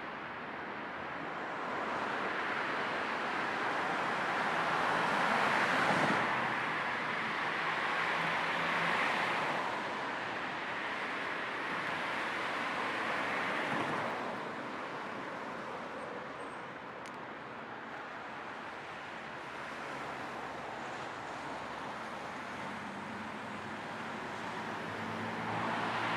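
Car-ride road noise: a steady rush of tyres and wind blended with low white noise. It swells and eases several times as the car drives.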